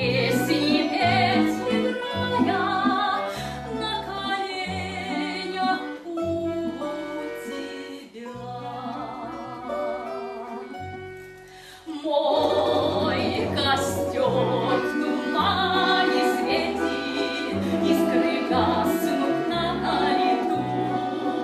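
Live Russian romance: a woman's singing voice with vibrato over instrumental accompaniment. The music softens in the middle and swells back up about twelve seconds in.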